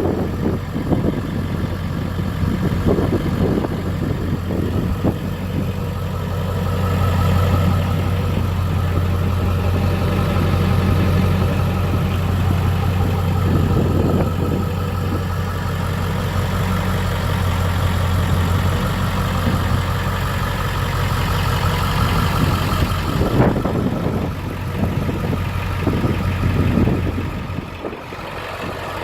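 Ford 7.3 Powerstroke V8 turbo diesel engine running at idle, a steady low hum, dropping a little in level near the end.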